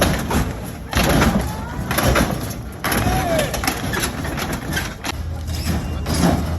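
Crowd noise: many voices chattering, with a few knocks. A steady low hum comes in about five seconds in.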